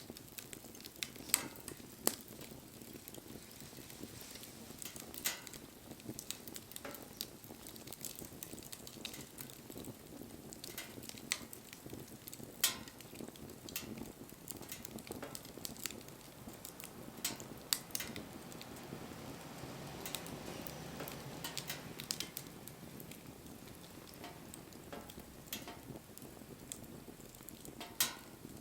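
Wood fire burning, crackling steadily with irregular sharp pops of burning wood.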